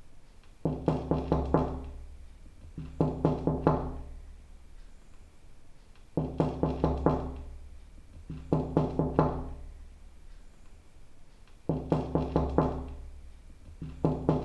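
Knuckles knocking on a wooden door in quick sets of four or five raps, the sets coming in pairs repeated three times, each rap with a hollow ring.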